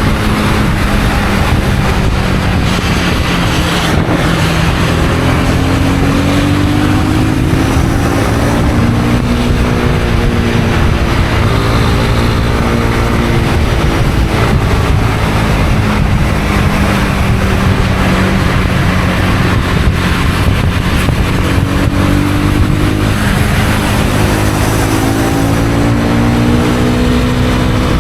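Honda CB250R's single-cylinder engine running under way, its pitch rising and falling several times with the throttle, over a steady rush of wind and road noise.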